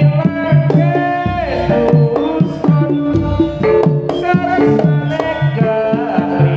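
Jaranan gamelan music played through a PA: hand drums keep a steady driving rhythm under pitched gong and metal percussion. A high melody line slides down in pitch about a second in.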